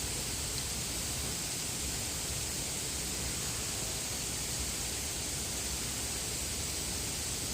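A waterfall's water rushing in a steady, unbroken hiss.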